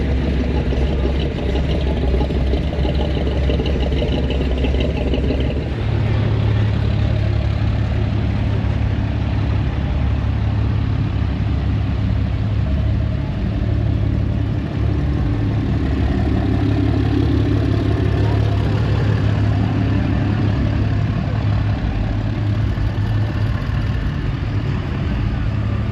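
Vehicle engine running close by with a steady low hum that steps up in pitch about six seconds in and holds at the higher speed.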